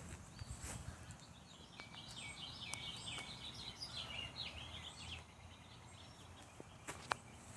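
Faint bird chirping: a quick run of short, high chirps for about four seconds, over a low rumble, with a couple of sharp clicks near the end.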